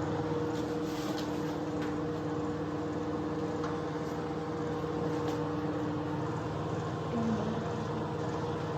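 Microwave oven running with a steady hum, heating a bag of microwave popcorn.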